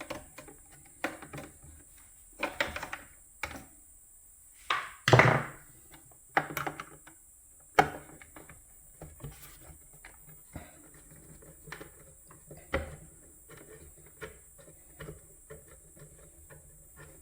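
Scattered clicks, taps and knocks of a screwdriver and loose screws being worked on an espresso machine's plastic housing, with a louder clatter about five seconds in.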